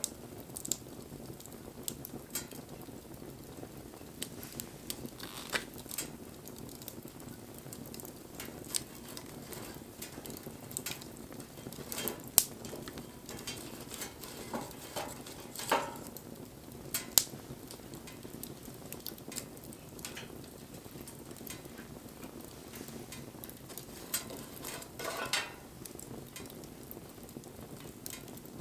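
Wood fire burning: a steady low rush of flames under irregular sharp crackles and pops, with a few much louder snaps scattered through.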